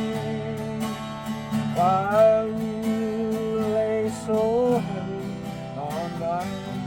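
Acoustic guitar strumming under long, wavering vocal notes that slide up in pitch, about two seconds in and again near the end.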